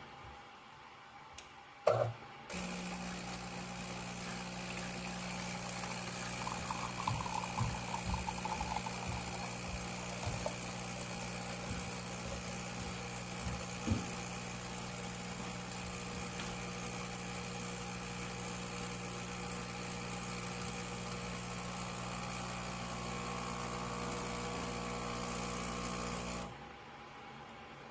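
Fully automatic espresso machine running with a steady mechanical hum. It starts just after a click, has a few knocks and a brief bubbling in its first half, and cuts off suddenly near the end.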